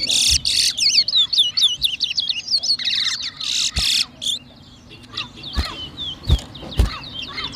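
Caged towa towa songbirds singing: fast strings of looping, whistled notes, dense for the first four seconds, then thinner chirps. A few soft knocks sound near the end.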